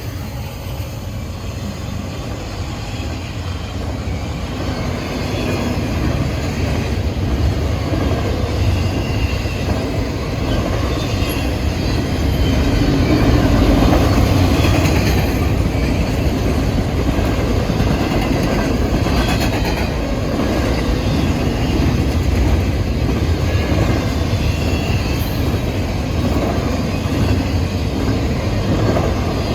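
A train's cars rolling steadily past on the rails, a continuous rumble with wheels clicking and rattling over the track.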